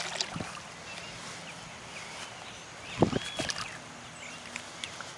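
Birds chirping in short calls over a faint steady outdoor background, with a few dull knocks, the loudest about three seconds in.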